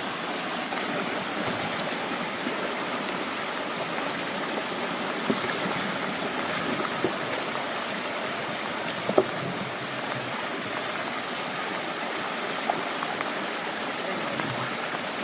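Mountain stream water rushing steadily, with a few sharp knocks or splashes over it, the loudest about nine seconds in.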